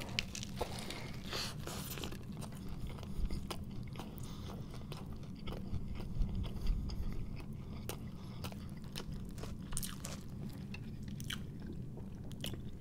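A person biting into and chewing a mouthful of a homemade bacon cheeseburger with a stack of bacon strips, with scattered small crunches and mouth clicks over a low steady hum.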